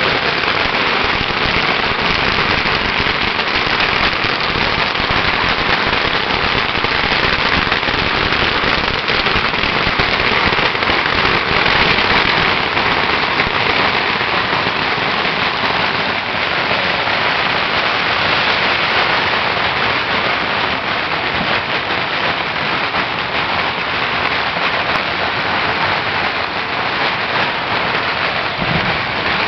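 Firecrackers going off in a dense, unbroken crackle, a steady rain-like patter of countless small bangs.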